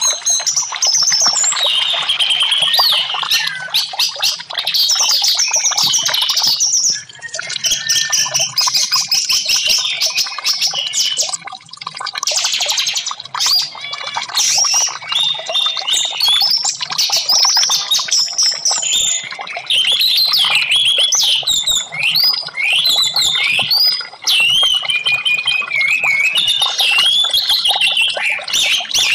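Orange-headed thrush singing: a long, continuous run of varied whistled phrases that glide up and down, with a stretch of rapid chattering notes around the middle.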